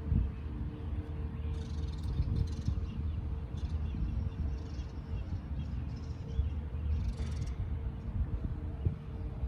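Small birds chirping in short clusters of high calls, several times, over a steady low rumble.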